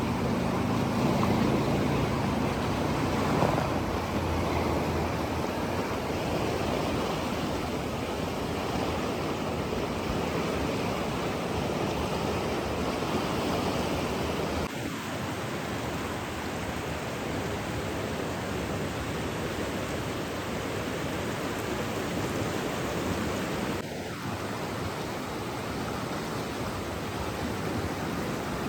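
Steady rushing water, an even hiss-like wash with no single drops or splashes standing out; the level dips slightly about 15 s in and again near 24 s.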